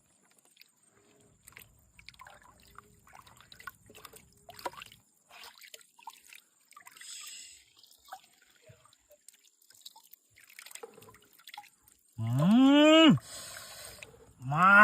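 Faint scattered drips and small clicks, then two loud, drawn-out voiced calls near the end, each about a second long and rising then falling in pitch.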